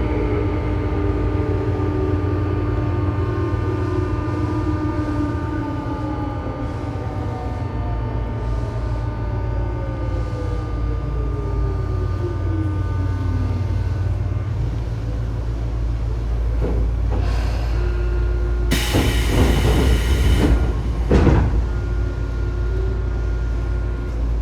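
Tobu 9000-series armature-chopper electric train running under a motor car, its chopper and motor tones sliding down in pitch over the first dozen or so seconds as the train slows on regenerative braking, over a steady low hum; this car's chopper makes an abnormal whine. A short loud rushing hiss comes about two-thirds of the way through.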